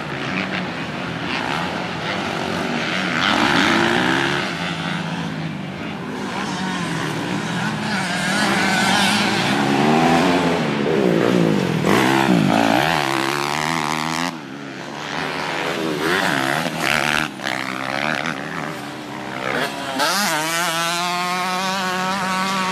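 Dirt bike engine revving as it rides, its pitch climbing and dropping several times, with a sharp rising rev near the end over a steady low drone.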